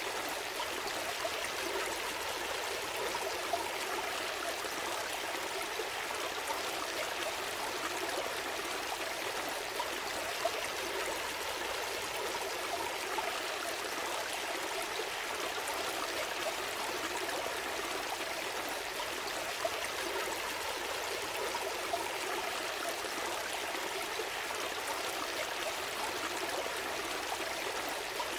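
Gentle stream flowing steadily over stones, with small trickles and splashes.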